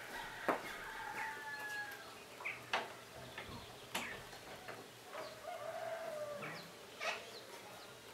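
Birds calling outdoors: a few drawn-out, level-pitched calls of about a second each, with several short, sharp notes in between.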